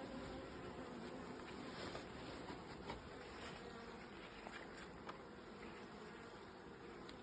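Honeybees buzzing steadily around an open hive, with a few faint clicks among the hum.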